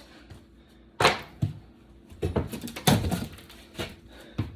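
Irregular knocks, cracks and scraping as old floor covering and subfloor are pried up and torn out by hand, in about half a dozen separate bursts.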